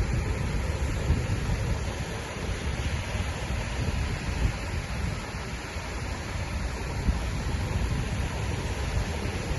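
Wind buffeting the microphone over the steady wash of surf on a beach, a continuous rough low rumble with noise spread up high.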